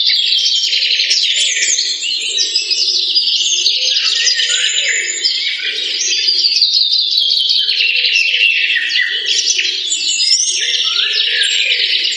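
A dense chorus of many birds chirping and singing without a break, with a fainter layer of lower-pitched calls beneath, played as a recorded backing track for a stage mime.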